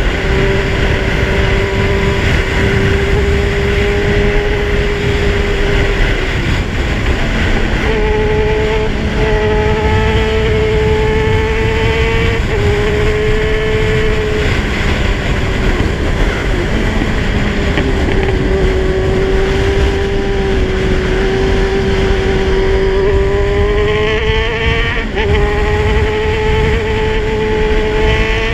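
Kawasaki Z1000 inline-four engine running at cruising revs while being ridden. The engine note holds steady, then dips and picks up again a few times as gears change, over heavy wind rumble on the microphone.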